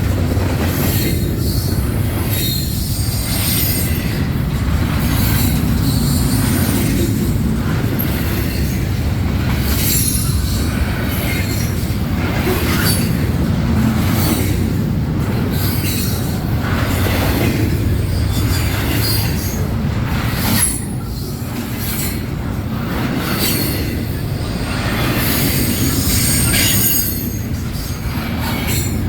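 Freight train cars rolling past on the rails: a steady low rumble with repeated high-pitched wheel squeal.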